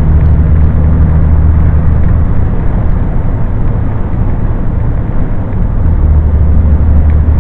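Scania truck's engine and road noise while driving, a loud steady low drone that eases for a few seconds in the middle and then comes back.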